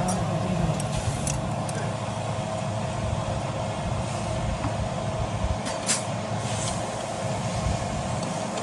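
An engine running steadily with a constant hum, with a few short sharp clicks over it.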